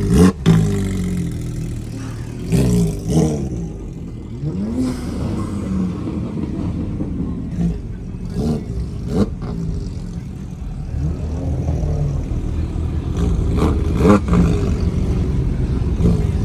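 Several car engines running as cars pull in, with short revs that rise and fall and a few brief sharp knocks.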